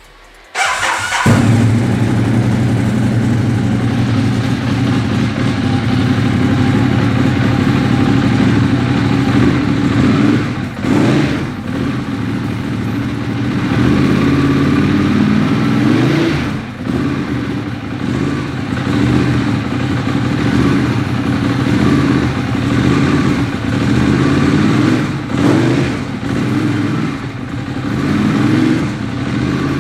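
2014 Ducati Monster 821's L-twin engine started: a brief whirr of the starter, then it catches about a second in and runs steadily, its pitch rising and falling briefly a few times as the throttle is blipped.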